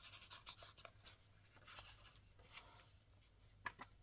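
Faint rustling and light taps of paper and cardstock being handled, with one sharper tap near the end.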